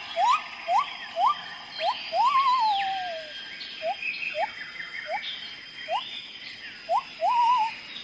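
Bird calls: a run of short, clean rising whistles, a few a second, with a longer warbling note that slides down about two seconds in and higher arching whistles behind, over a faint steady high tone. Not the harsh squawks of macaws.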